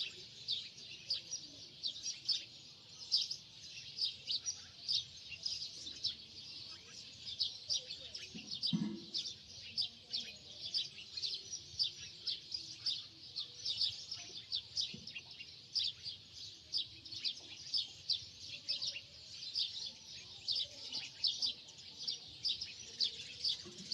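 Small birds chirping continuously, many short high chirps a second. A brief low thud comes about nine seconds in.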